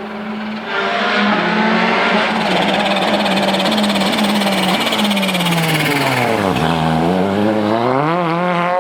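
Volkswagen Polo R WRC rally car's turbocharged 1.6-litre four-cylinder engine running hard on a stage. Its pitch holds fairly level with small steps, then drops as the car slows from about five seconds in, bottoms out about a second and a half later, and rises steadily as it accelerates away.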